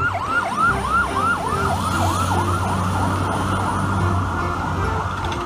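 Fire rescue truck's electronic siren in fast yelp mode, one rising sweep after another at about three a second, over the rumble of the truck's engine.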